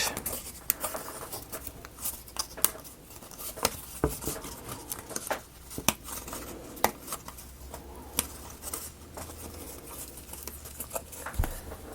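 Thin wooden model pieces being handled and sorted, a string of irregular light clicks and taps with a few louder knocks.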